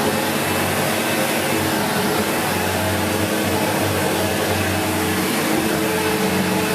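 SEBO X4 Extra upright vacuum cleaner running steadily with its motor and brushroll on, vacuuming carpet.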